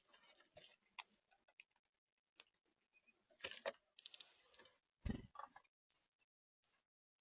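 Songbird giving short, sharp, high chip notes, three of them in the second half, one every second or so. Faint scattered clicks come before them, and a faint low thump comes about five seconds in.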